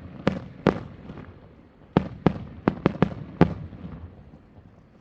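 Aerial firework shells bursting: two sharp bangs in the first second, then a quick run of about six between two and three and a half seconds in, each followed by a short echoing tail.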